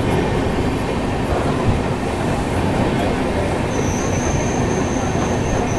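Passenger train coaches rolling slowly along a station platform, a steady rumble of wheels on the rails. A thin, high, steady squeal sets in about four seconds in as the train slows for its halt.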